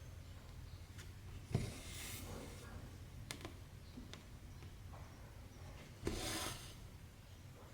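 Embroidery thread being drawn through cross-stitch fabric with a needle: a tap and a short rasping swish about a second and a half in, a few light ticks, then a louder, longer swish about six seconds in.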